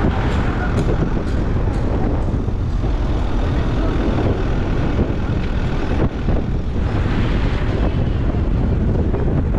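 A car driving along a road: steady engine, tyre and wind noise heard from inside the moving vehicle.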